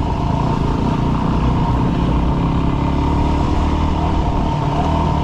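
Yamaha WR dirt bike's single-cylinder engine running steadily while riding, its pitch drifting slightly.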